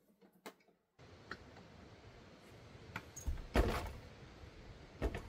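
Clicks and a short clatter of handling or a door, the loudest about three and a half seconds in, over a steady hiss that starts abruptly about a second in.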